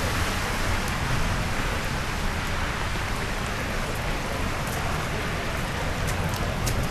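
Steady rain falling, an even hiss, with a few sharp ticks near the end.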